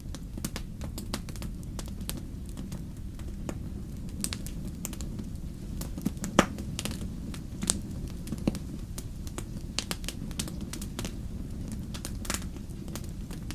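Wood campfire crackling, with irregular sharp pops and snaps over a steady low rumble; the loudest pop comes about halfway through.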